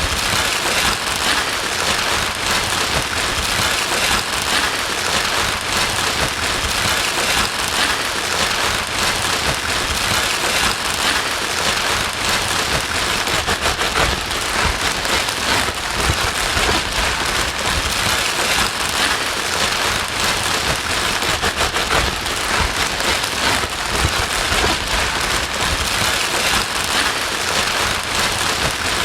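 Continuous white noise, a steady dense hiss with a fine crackle running through it, used to soothe a crying baby to sleep.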